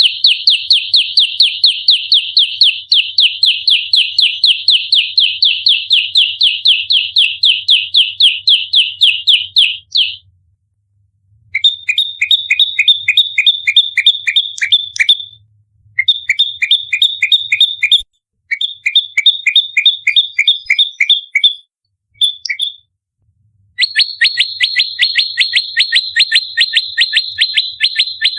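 Prenjak lumut, a small Indonesian warbler, giving its rapid-fire fighting song: sharp, high chirps repeated about four or five times a second in long runs, broken by short pauses of about a second. This is the dense "nembak rapat" challenge call used to lure and train the birds.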